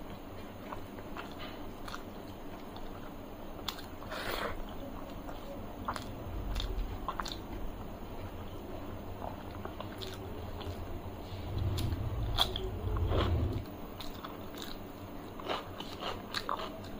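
Close-miked chewing and wet mouth sounds of someone eating rice and curry by hand, with many sharp little smacks and clicks scattered throughout and two louder stretches of low, heavy chewing about six and twelve seconds in.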